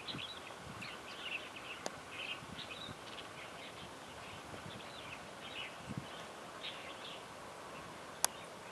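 Small birds chirping in short, irregular calls in hillside scrub, over a steady background hiss. There is a sharp click about two seconds in and another near the end.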